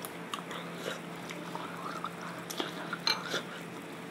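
A person chewing a spoonful of coconut-milk dessert soup, with soft mouth clicks and a few sharper clicks about two and a half to three and a half seconds in. A steady low hum runs underneath.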